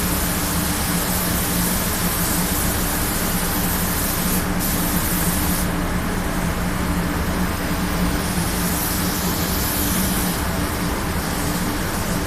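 Paint spray gun hissing in passes, cutting off briefly about four and a half seconds in and stopping again shortly after, then returning near the end. Beneath it runs a steady low machine hum.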